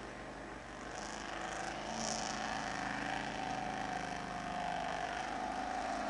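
Off-road 4x4 truck engine running steadily, with a steady whine over it and brief hissing noises about one to two seconds in.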